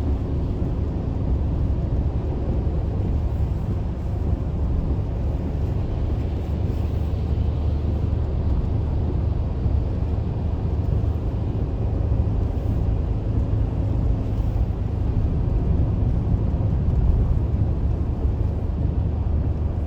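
Steady road and engine noise inside a moving car's cabin at highway speed: a continuous low rumble without breaks.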